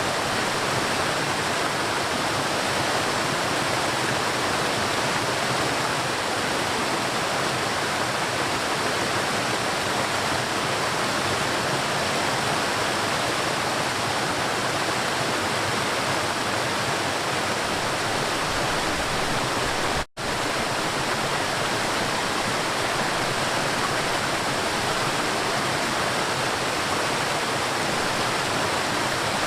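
River water flowing in a steady, even rush. It cuts out for an instant about two-thirds of the way through.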